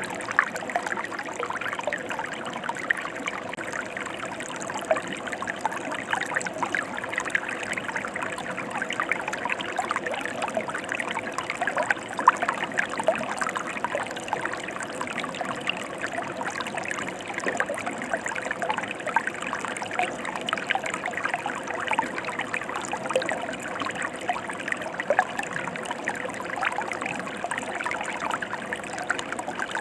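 Mountain river flowing steadily: a continuous rush of water dense with small splashes and gurgles, with no lulls.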